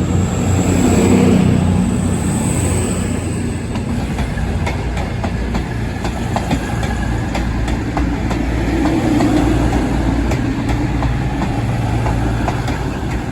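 Train running on the track with a steady low rumble, the wheels clicking repeatedly over rail joints in the middle of the stretch.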